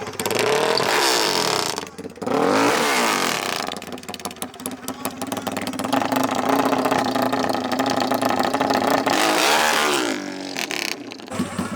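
Racing off-road engines revving hard. Their pitch climbs and falls a few times as they accelerate and pass, with a longer sustained run in the middle.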